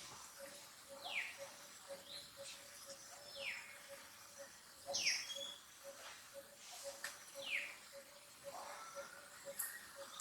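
Short high-pitched animal calls, each one falling in pitch, repeated about every one to two seconds, over a steady rapid ticking.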